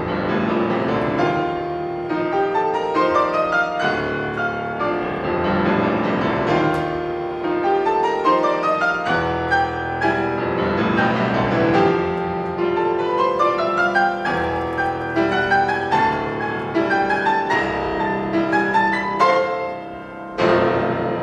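Concert piano playing fast rising runs and chords in a piano concerto passage, with a loud full chord near the end.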